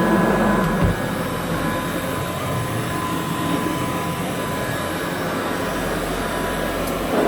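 Rebuilt Kirby 517 vacuum cleaner running steadily with a constant motor whine. There are a couple of brief knocks in the first second.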